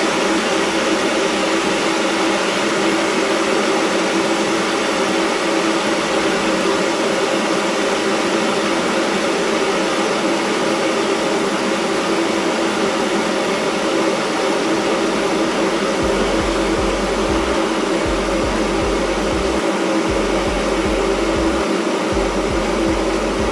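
Bosch Town TWK78A01 3 kW stainless steel electric kettle heating about a litre of water, a loud steady rushing noise as the water comes toward the boil.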